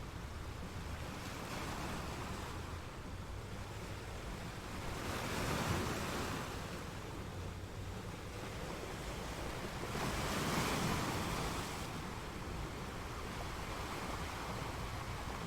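Ocean waves breaking against rocks over a steady background of surf, with two waves swelling up louder, one around the middle and one about two-thirds of the way through.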